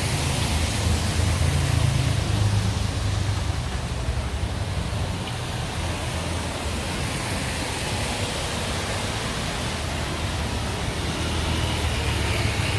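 Steady street noise of traffic: vehicle engines humming low under an even hiss, with light rain falling.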